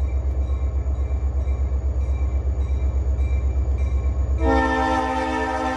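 Freight train's diesel locomotives rumbling with a steady low throb, about five pulses a second. About four seconds in, the locomotive horn starts sounding a steady chord and holds it.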